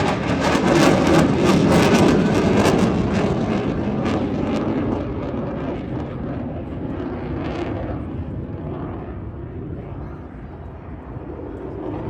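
Jet noise from a Eurofighter Typhoon's twin EJ200 turbofan engines in display flight, loud at first, then fading and dulling as the jet draws away, swelling a little again near the end.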